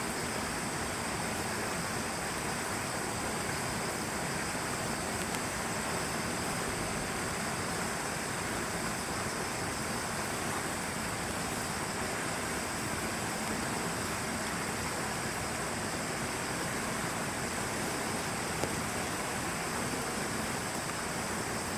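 Steady rain falling, an even hiss with no separate drops standing out, with a thin, steady, high-pitched tone running behind it.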